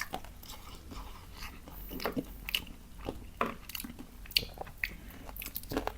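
A person biting and chewing crunchy food close to the microphone, with irregular crisp crunches.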